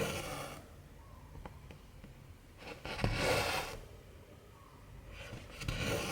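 Cotton embroidery thread being drawn through 14-count cross-stitch fabric: three swishes about three seconds apart, with a few faint ticks between.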